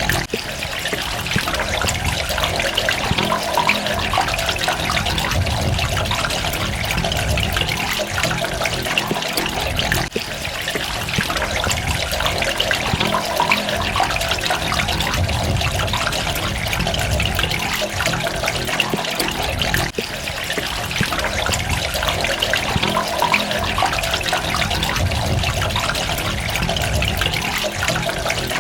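Water trickling and splashing steadily, with a low rumble beneath and a brief dip in level about every ten seconds.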